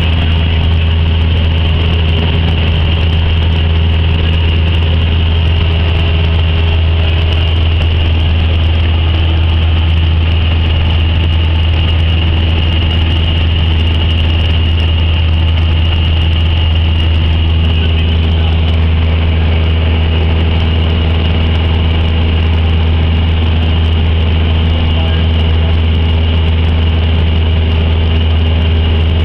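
Cessna 172's piston engine and propeller running steadily, heard inside the cabin as a loud, even drone with a deep hum and no change in pitch.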